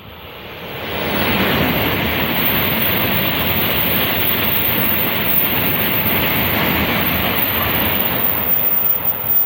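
Tokaido Shinkansen train passing at high speed without stopping: a loud, steady rush of air and rail noise that builds over about the first second and then holds.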